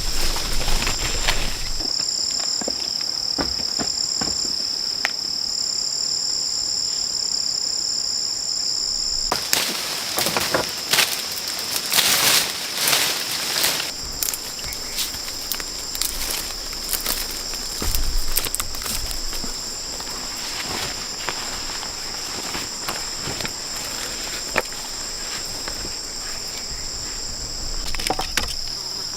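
A steady, high-pitched chorus of rainforest insects, one strand of it pulsing on and off for the first few seconds before it holds steady. Rustling and irregular knocks come and go over it, busiest around a third of the way in.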